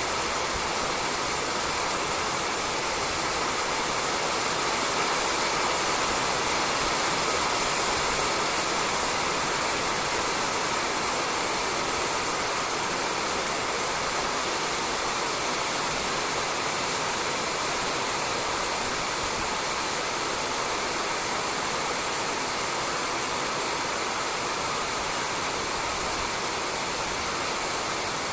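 Steady rain falling on a roof, a dense even hiss of drops with no distinct individual patters.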